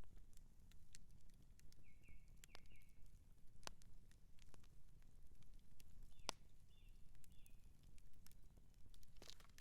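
Outdoor campfire crackling: a low steady rumble of the burning fire with many small irregular snaps and a couple of sharper pops. Short high chirps come twice in the background.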